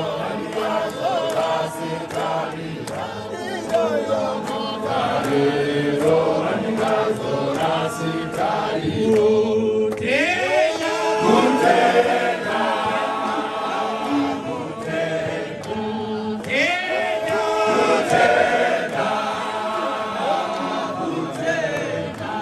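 A group of voices singing together in chorus, a congregation's hymn or chant with many voices overlapping.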